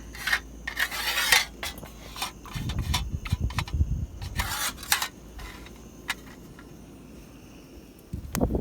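Metal cookware and utensils being handled: scraping and clinking for the first few seconds, with low handling knocks, then a quieter stretch.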